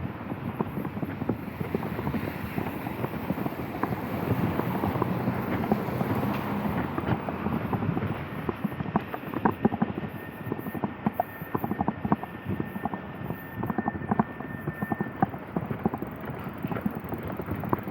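Street ambience in the rain: a constant wash of noise with many irregular short taps, and a thin steady high tone for about five seconds in the second half.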